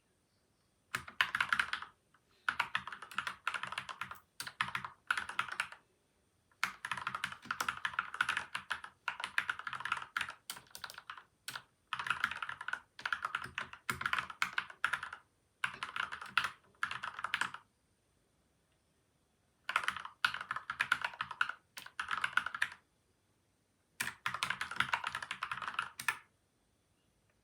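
Typing on a mechanical keyboard fitted with Gateron Milky White and Outemu Yellow switches, lubed and dampened with tape and foam mods: rapid runs of keystrokes in bursts of a second or two, broken by short pauses.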